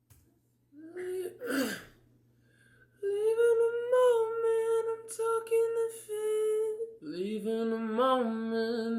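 Unaccompanied voices singing or humming long held notes: one voice starts about three seconds in, and a second, lower voice joins in harmony about seven seconds in. A short throat-clearing-like vocal sound comes about a second in.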